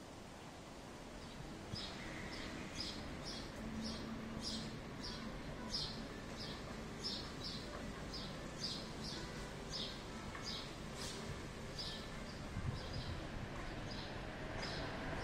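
A small bird chirping over and over, short high chirps about two a second, some in quick pairs, over a steady background hiss of noise.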